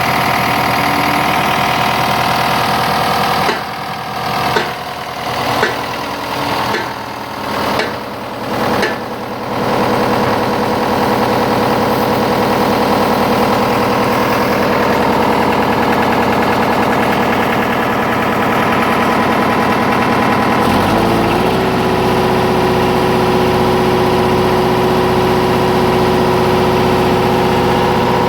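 10 kW diesel generator running steadily. Its sound dips briefly several times between about four and nine seconds in. About 21 seconds in, its tone shifts and a deeper hum sets in and holds.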